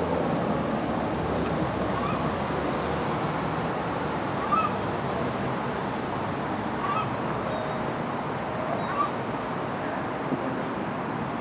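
Steady urban street background noise, a constant hum of traffic, with a short bird call every couple of seconds.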